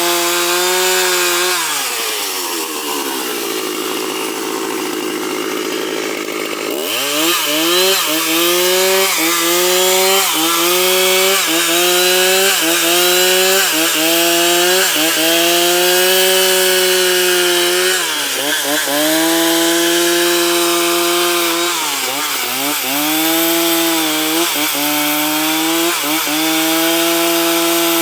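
Gas chainsaw running at high revs while ripping a log into boards. It eases back to idle about two seconds in and revs up again about seven seconds in, then the engine pitch dips and recovers about once a second as it cuts.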